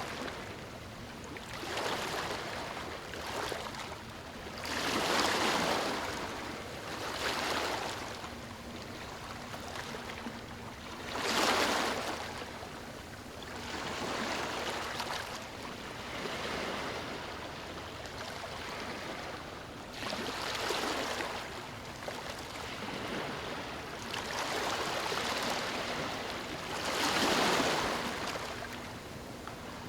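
Ocean surf breaking on a beach: a steady wash of water with a wave surging in and falling away every few seconds.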